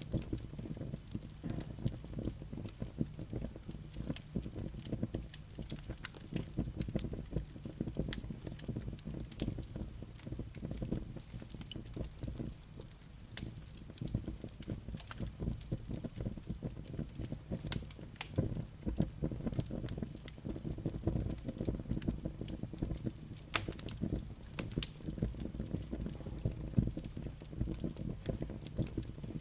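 Wood fire burning in a fireplace: a steady low rumble of flames with frequent irregular crackles and sharp pops from the burning logs and embers.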